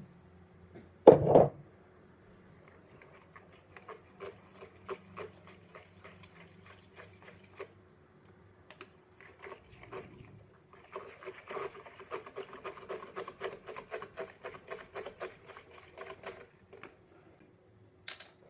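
A loud knock about a second in, then a run of quick rhythmic taps that becomes faster and denser from about eleven seconds, about four to five strokes a second, like a utensil beating in a bowl.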